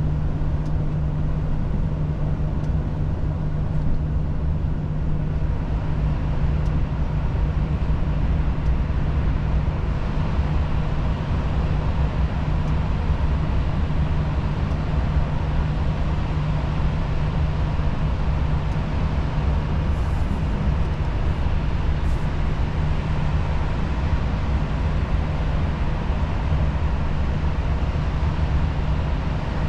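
Volvo FH truck cruising, heard from inside the cab: a steady diesel engine drone with road and tyre noise.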